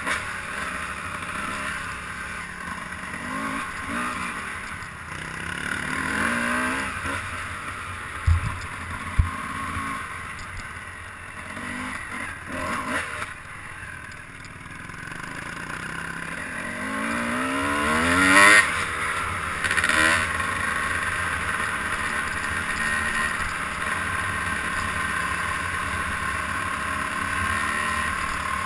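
A vehicle engine under way, its pitch rising and falling as it revs up and down several times, over a steady rushing noise. Two sharp knocks come about eight and nine seconds in, and the revs climb highest around eighteen seconds in.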